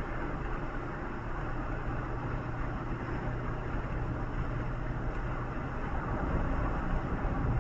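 Steady engine and road noise of a vehicle travelling along a road, a continuous low hum under a rushing sound, getting slightly louder near the end.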